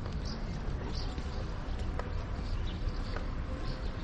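Outdoor city ambience heard while walking: a steady low rumble with faint high chirps and a couple of sharp clicks.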